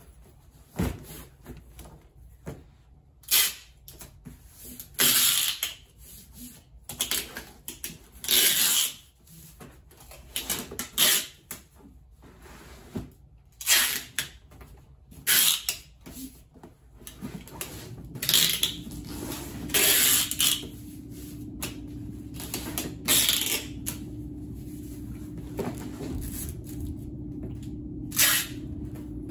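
Cardboard card wrap and packing tape being handled while wrapping a mirror for shipping: a series of short noisy rustling and tearing bursts, one every second or two. A steady low hum starts about halfway through.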